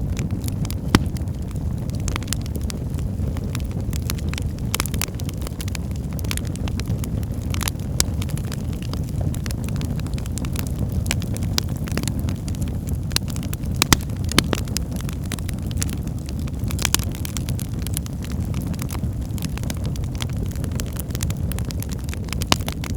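Wood fire in a fireplace crackling, with a steady low rumble of flames under frequent irregular sharp pops and snaps, a few of them louder.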